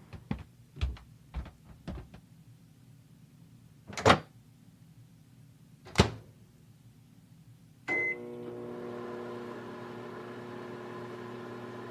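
Several soft thuds, then two sharp clunks like a door shutting, a short beep, and a microwave oven starting and running with a steady hum.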